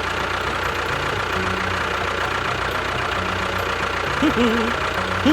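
An engine running steadily at idle, with a continuous even hum. About four seconds in there is a brief pitched call, like a short voice.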